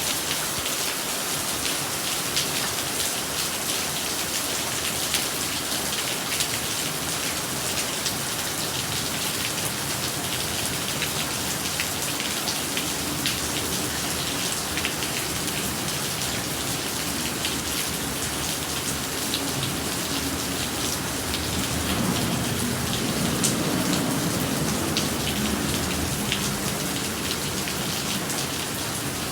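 Steady rain falling and pattering on surfaces, with many small drop hits. It swells slightly about three-quarters of the way through, then eases back.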